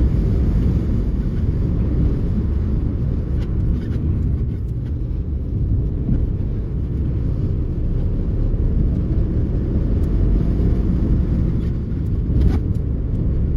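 Car running: a steady low rumble with a few faint clicks and no audible high-pitched whine.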